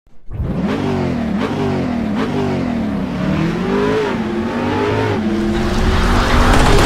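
A car engine revving, its pitch rising and falling again and again and growing louder toward the end.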